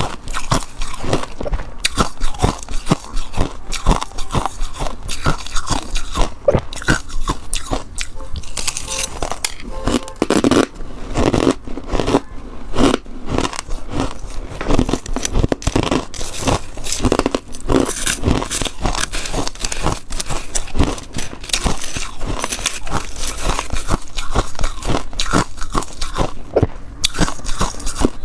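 Close-miked biting and chewing of freezer frost: rapid, dense crunching of powdery ice, bite after bite throughout.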